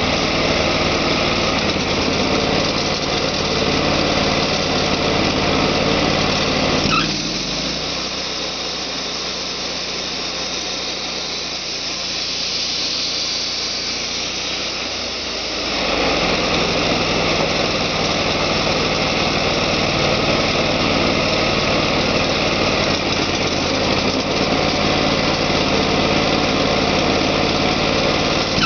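Portable sawmill's engine running steadily. About seven seconds in, the sound drops and turns rougher for roughly nine seconds, then the full steady running sound comes back.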